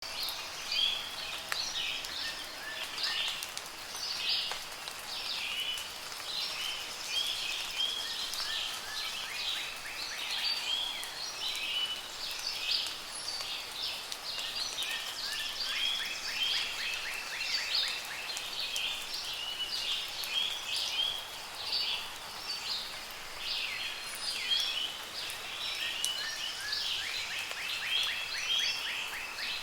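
Several birds singing and calling over one another without pause, with a few rapid trills, over a soft, steady patter of rain.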